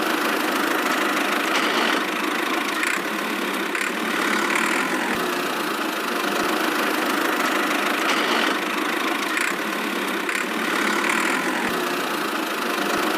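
Small motor of a DIY miniature construction machine running steadily, a thin mechanical whir with no deep engine rumble.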